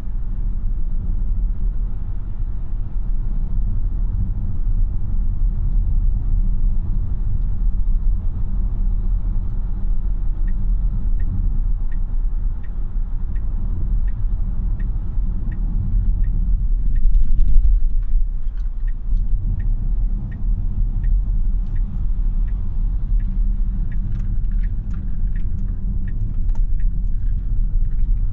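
Road and tyre noise inside the cabin of a 2026 Tesla Model Y AWD on the move: a steady low rumble with no engine note. From about ten seconds in, a light tick repeats about twice a second.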